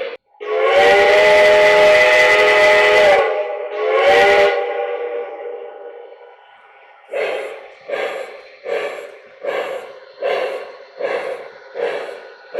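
Sound system of an O-gauge model steam locomotive blowing a chime steam whistle: one long blast, then a short one, fading off with a hiss. About seven seconds in, the steam chuff starts up again as even puffs, a little more than one a second.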